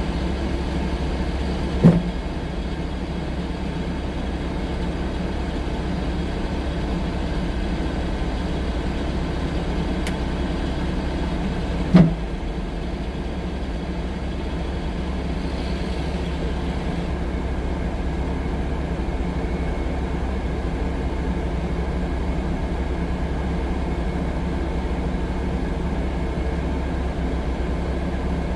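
A 6-ton tracked skid steer loader's engine running steadily, with two short, loud knocks about two seconds in and again about twelve seconds in.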